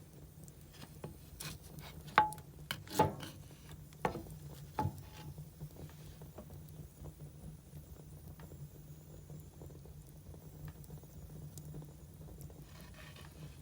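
Burning firewood crackling, with a few sharp pops between about two and five seconds in, over a low steady hum.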